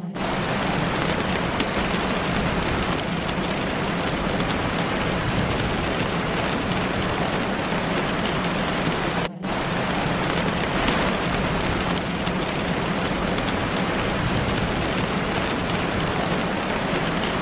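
Steady, even rain with a constant low hum underneath. It cuts out for an instant near the start and again about nine seconds in, like a looped track's seam.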